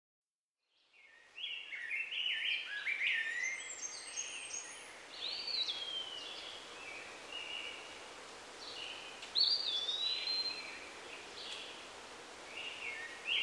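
Songbirds singing over a faint steady hiss, starting after a second and a half of silence: quick clustered chirps, with a few longer slurred whistles dropping or rising in pitch around six and ten seconds in.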